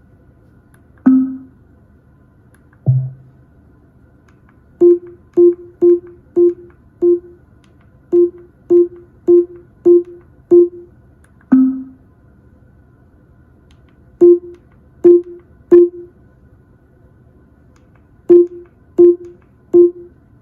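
Amazon Echo (4th Gen) smart speaker sounding short single-note feedback tones. Most come in quick runs of the same note, several a second, with a few lower single notes between the runs.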